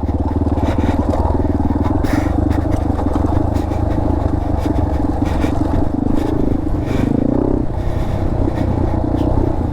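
An engine running steadily at low speed, with a higher note that rises a little and then drops away about seven and a half seconds in.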